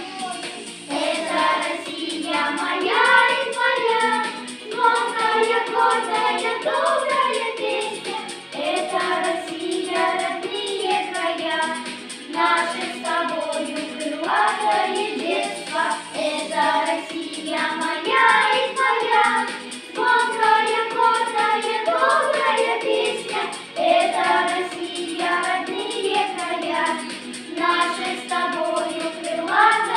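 Children's vocal group singing a song together, with sustained melodic lines.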